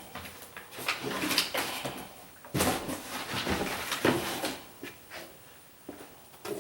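Irregular knocks, clicks and rustling of things being handled, coming in bursts about a second apart and growing fainter near the end.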